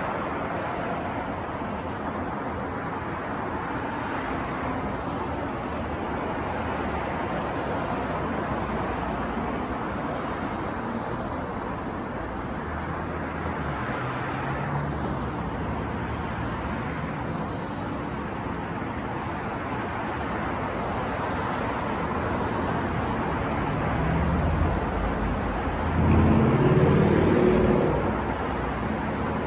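New York street traffic noise: a steady wash of passing cars, with one vehicle's engine passing louder near the end.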